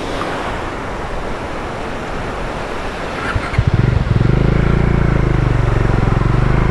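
Steady rushing noise, then about halfway through a motorcycle engine comes in abruptly, louder, and runs steadily with a low drone.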